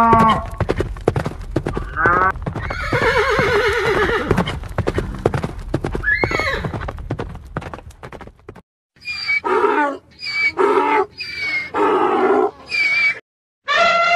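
Animal sound effect of a horse neighing over fast clip-clop hoofbeats for the first eight seconds or so, the neigh ending in a rising squeal. After a brief break come five short separate calls from another animal.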